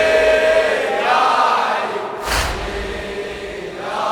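Crowd of mourners chanting a latmiya refrain in unison, with one loud collective thump about two seconds in: the massed chest-beating (latm) that keeps the slow rhythm of the lament.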